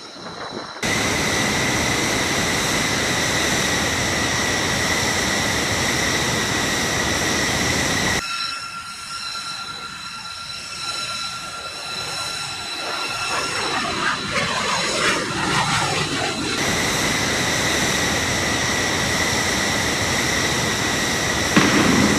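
Jet engines running: a loud, steady roar with a high whine. It comes in sections that change abruptly about a second in, about eight seconds in and about sixteen seconds in.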